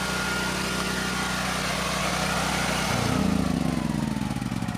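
Sportsman 9000-watt portable generator's engine running steadily; about three seconds in its sound changes and gets louder, and near the end it begins to wind down with separate firing pulses as it is shut off.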